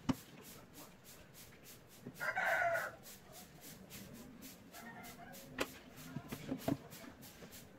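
A bird call about a second long, about two seconds in. Later come a few light clicks as wooden and plastic crossbow parts are handled.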